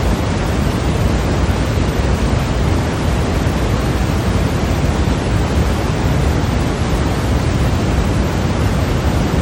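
Steady sleep-machine white noise: an even, unchanging hiss, fuller in the low end.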